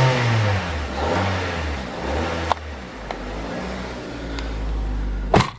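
Cold 2002 Mazda 626 engine revved up and let back down about three times. A single loud thump comes near the end.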